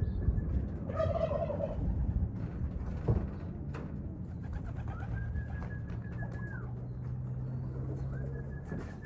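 Pigeons cooing, with a sharp knock about three seconds in and two long, steady high-pitched tones later on.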